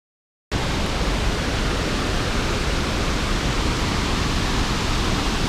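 Steady roar of rushing water from a large waterfall, cutting in abruptly about half a second in after dead silence.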